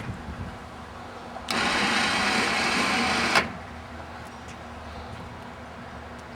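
Electric winch motor of a Rampage motorcycle lift running for about two seconds to pay out its cable, starting and stopping abruptly, over a low steady hum.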